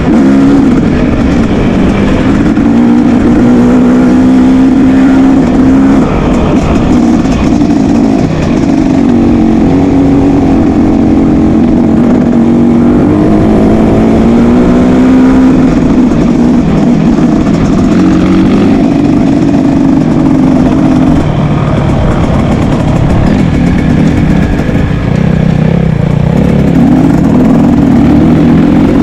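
Motocross motorcycle engines running loud, their pitch rising and falling with the throttle, more than one bike heard at once near the start and end.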